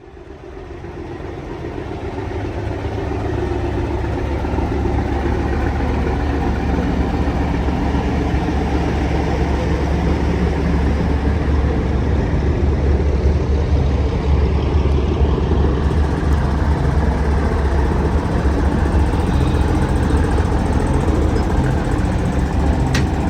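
A truck's diesel engine running steadily. The sound swells up over the first few seconds, then holds at an even, deep running note.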